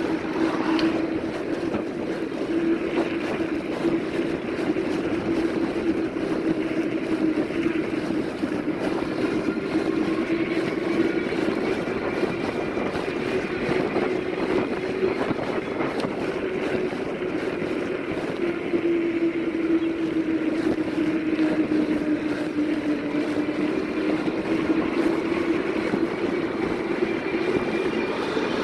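Cheetah Civi electric fat-tire bike running at speed: a steady drone from the tyres and drivetrain whose pitch wavers slightly as the speed changes, with wind noise on the microphone.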